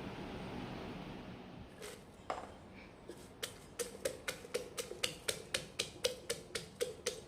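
A wooden pestle pounding in a mortar, a steady rhythm of hollow knocks about four a second, the pounding of a papaya salad. Before it, a steady hiss.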